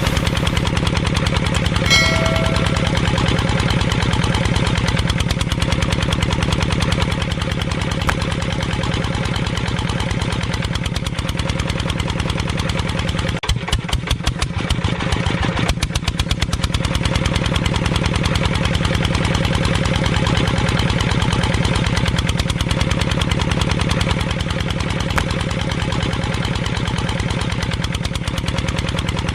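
Small engine of a homemade mini chaff cutter running steadily with a fast, even beat. The beat slows briefly about halfway through, then picks back up. A short whistling tone sounds about two seconds in.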